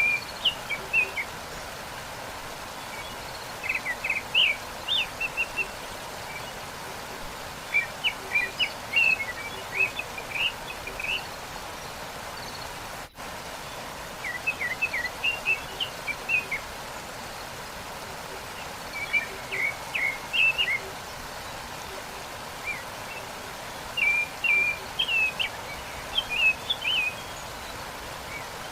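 Songbird phrases of quick high chirps, recurring every four to five seconds, over the steady rush of a waterfall. The sound cuts out for an instant near the middle.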